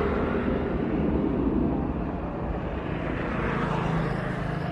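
Large jet airliner's engines running with a steady rumble.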